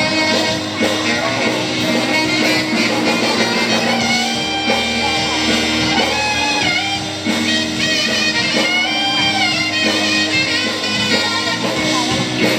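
Live band music playing loudly through a concert PA during a sound check, with guitars and a sung melody.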